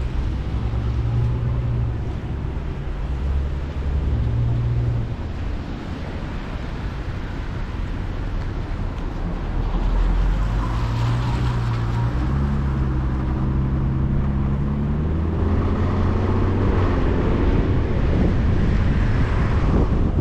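Vehicle driving, recorded from inside by a dash cam: a steady low rumble of road and engine noise. In the second half the engine note steps upward in pitch several times.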